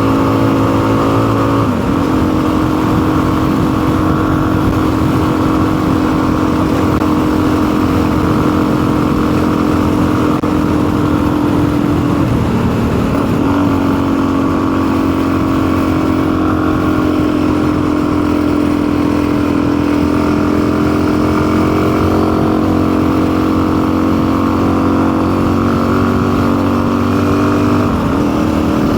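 Motorcycle engine running steadily under way, its pitch shifting a few times: a drop about two seconds in, a dip and recovery around twelve seconds, and another change near the end.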